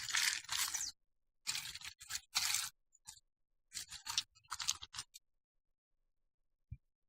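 Used hydraulic tappets and rocker arms being rummaged through by hand: a run of short, irregular scraping and rustling handling noises, then a single click near the end.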